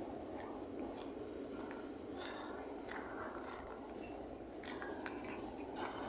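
Freight train's wagons rolling past: a steady rumble with scattered short clicks and scrapes.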